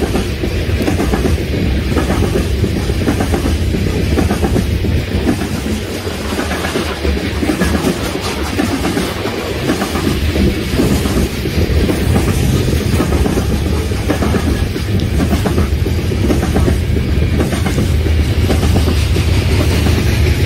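BNSF freight train of open-top coal cars rolling steadily past: a low rumble of steel wheels on rail with a continuous clickety-clack of wheels over the track.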